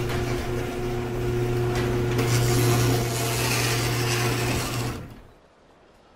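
A small motor running with a harsh grinding noise over a steady low hum, which fades out about five seconds in.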